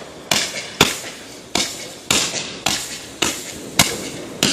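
Consumer firework battery firing shot after shot: about eight sharp bangs, roughly two a second, each trailing off in a short hiss.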